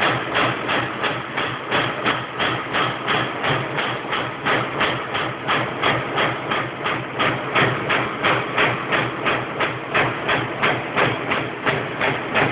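CNC punch press punching sheet metal, its ram striking in a steady rhythm of about three strokes a second over the running hum of the machine.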